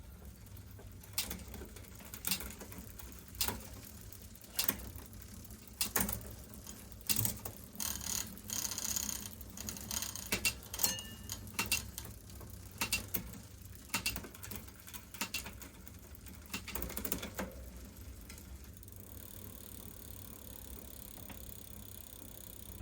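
Irregular sharp mechanical clicks and ratcheting from bicycle parts being worked on by hand. The clicks come about once a second at first, crowd together near the middle and stop well before the end, over a steady low hum.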